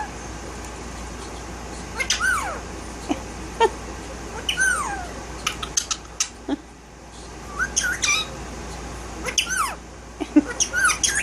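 Indian ringneck parakeet chirping and whistling in short, separate calls, several sweeping down in pitch, with a few sharp clicks between them.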